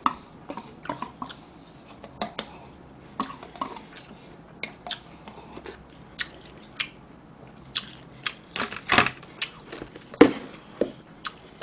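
A person chewing food close to the microphone: irregular crisp clicks and crunches of eating, with a louder cluster about nine to ten seconds in.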